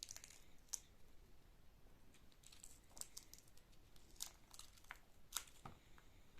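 Near silence broken by faint scattered clicks and light rustling, as of small things being handled; the sharpest click comes about five seconds in.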